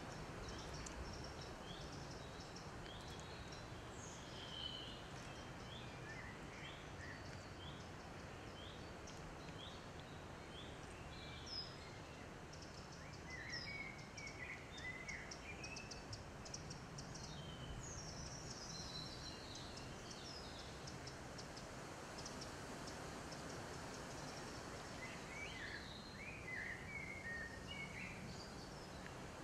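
Birds singing in a wood: a run of short, evenly repeated high notes, then bursts of twittering, over a faint steady hiss of background noise.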